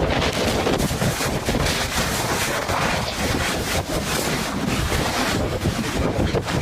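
Strong wind buffeting the microphone: a loud, steady rushing with heavy low rumble.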